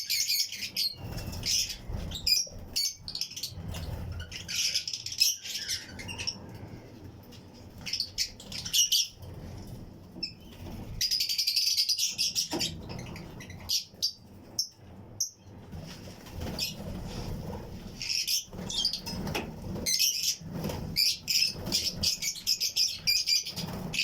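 A colony of Fischer's and lutino lovebirds chirping continuously in a flight-cage aviary, with wings flapping as birds fly about. The chirping thins out briefly twice, then picks back up.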